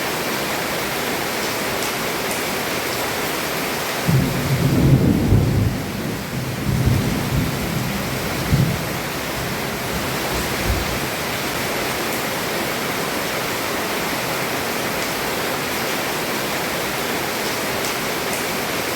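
Heavy rain falling steadily on a roof. About four seconds in, a rumble of thunder rolls in and fades out in swells over several seconds.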